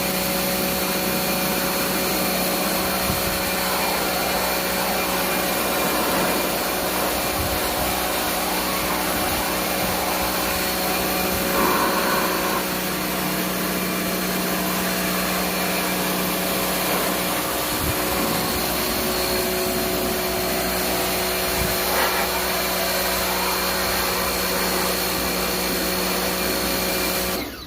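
Electric motor of a cleaning machine running steadily, a hiss with a fixed hum and whine, switched off abruptly near the end.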